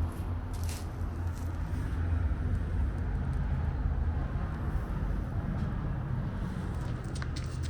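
Tekken Discovery 300 motorcycle engine running steadily at an even speed, with a few light clicks about a second in and near the end.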